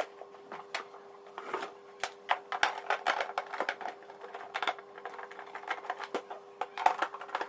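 Irregular small clicks and ticks of a screwdriver backing screws out of a vacuum cleaner's plastic housing, with the plastic parts being handled. A steady faint hum runs underneath.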